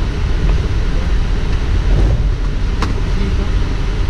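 Steady low rumble on the flight deck of a Boeing 777 taxiing after landing, with a faint click about three seconds in.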